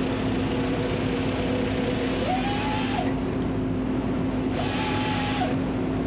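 Chainsaw running, its pitch rising twice for about a second as it is throttled up, over a steady machine hum.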